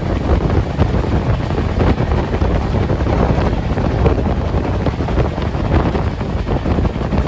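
Steady rumble of a moving passenger train, with wind rushing over the microphone.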